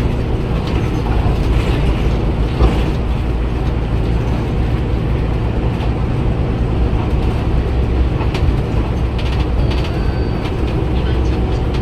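Cummins ISL Euro 6 300 PS six-cylinder diesel engine of a Daewoo BS106 city bus running steadily with a deep drone, with light clicks and rattles scattered through.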